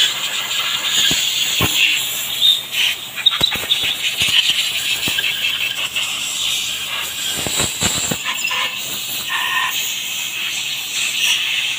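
Continuous high-pitched squealing, hissing noise with scattered sharp knocks, like metal working noise.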